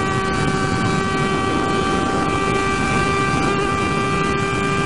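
Motorcycle engine running at a steady high pitch at speed, held at constant revs, over a broad rush of wind and road noise.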